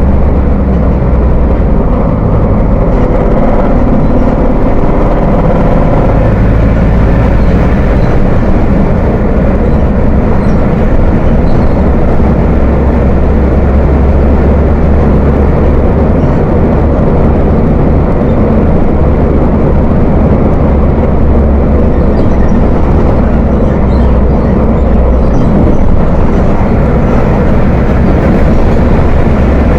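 Volkswagen 17.230 OD bus diesel engine running steadily with a deep, heavy rumble.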